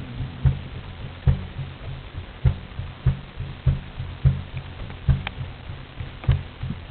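Old oil well pump engine running with a slow, steady chugging beat, a heavy low pulse about every half-second with lighter knocks between.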